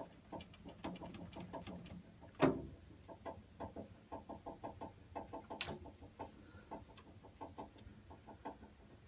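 Water heater making a rapid, irregular run of short clucking ticks, about four or five a second, with a sharper click about two and a half seconds in. The noise does not come from the pipes.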